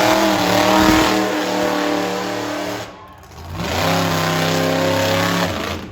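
Monster truck engine held at high revs for nearly three seconds, cutting off sharply, then revving up again for about two seconds before backing off.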